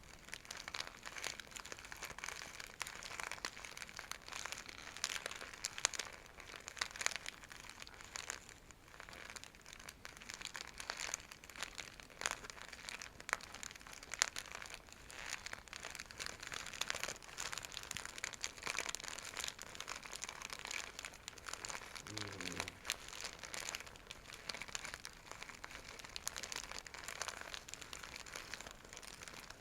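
Scratchy silk bag being scratched and scrunched: a continuous run of crinkling and scratching made of dense small crackles.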